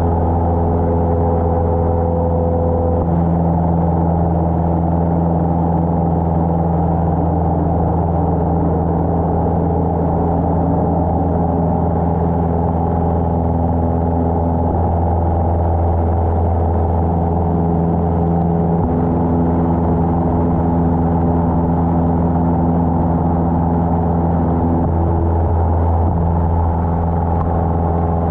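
Cessna 150's four-cylinder Continental O-200 engine and propeller droning steadily in flight, an even hum with a few overtones that come and go.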